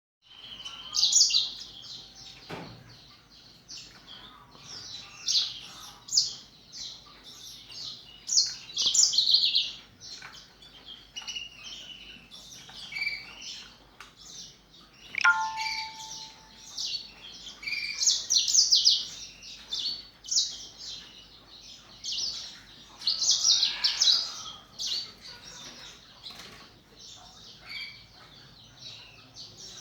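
Caged canaries and black-throated canaries singing: bursts of high, fast trills and chirps from several birds, one phrase after another, with a brief lower whistle about halfway through.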